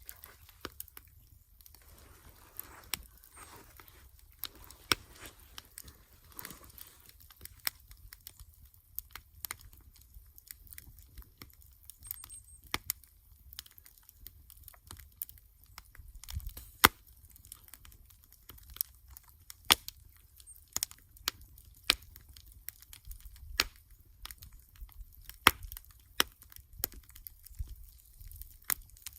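Wood campfire crackling, with irregular sharp pops and snaps, several of them louder than the rest, over a faint low rumble.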